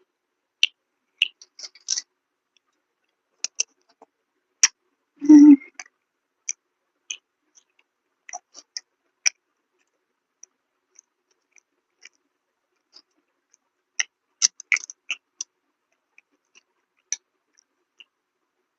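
Close-up mukbang eating sounds: naan with chhole being chewed, heard as scattered wet clicks and lip smacks. There is one louder, fuller sound about five seconds in, and a small flurry of smacks around fourteen to fifteen seconds.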